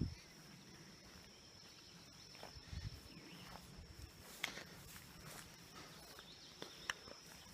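Faint outdoor ambience with a steady high-pitched insect hum, a couple of soft thuds about halfway through, and a few sharp clicks.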